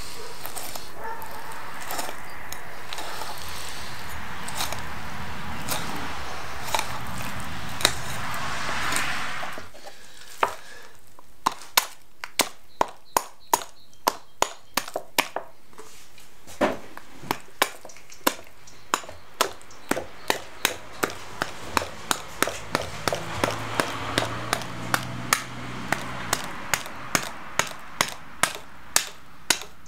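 Filleting knife cracking through the rib bones of a large fish, a run of sharp cracks about two a second from around a third of the way in. Before that, a steady rushing noise with only a few clicks.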